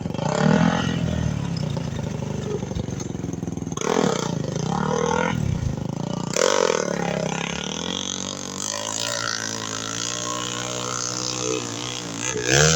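Enduro motorcycle engine revved in repeated surges, the pitch rising and falling with each blip of throttle, running steadier between the surges.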